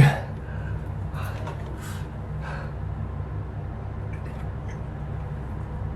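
A man breathing hard with a few short breaths or sniffs while he recovers from the burn of a superhot chili pepper. A steady low hum runs underneath.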